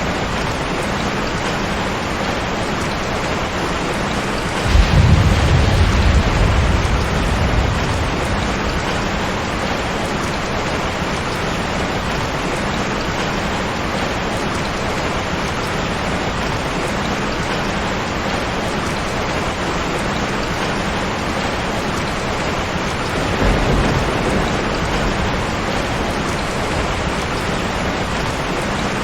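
Steady heavy rain with thunder rumbling low twice: a louder roll about five seconds in and a softer one later on.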